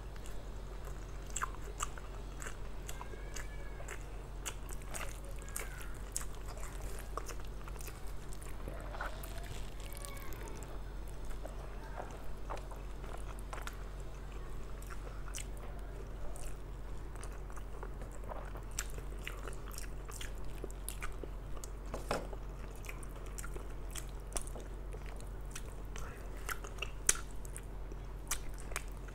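Close-miked chewing of a mouthful of rice and mutton curry, with many wet mouth clicks and lip smacks, over a steady low hum.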